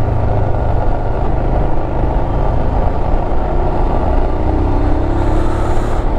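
Motorcycle on the move: steady wind rumble on the microphone over the running engine, with the engine note rising slightly near the end.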